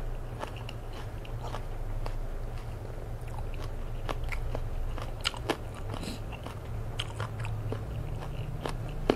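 Chewing food with the mouth closed and close to the microphone: scattered crisp crunches and small wet mouth clicks, over a steady low hum.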